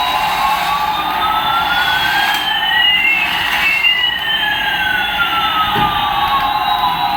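Electronic siren-style sound effect from a battery-powered toy's sound chip. Two tones glide in opposite directions, one rising and one falling, and cross about halfway through before sweeping back apart, over a steady lower tone.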